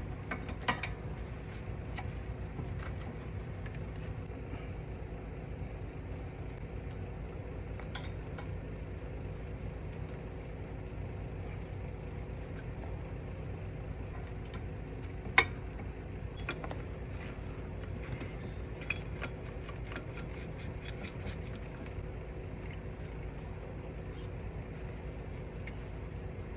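Scattered metal clinks and clicks of hand tools on suspension bolts, a few seconds apart, the sharpest about fifteen seconds in, over a steady low hum.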